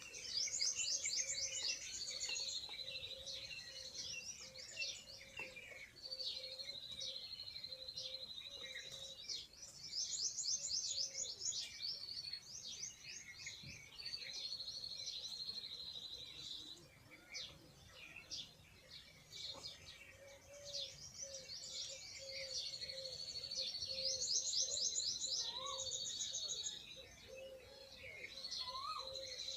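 Several small birds chirping and singing together, with a rapid high trill repeated a few times against steady lower chatter.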